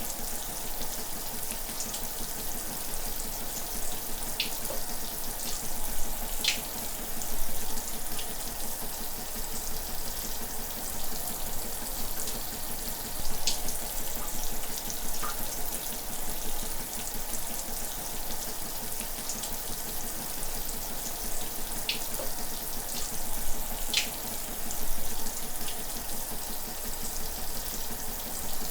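Shower running steadily, water spraying and splashing, with now and then a sharper splash or drop standing out.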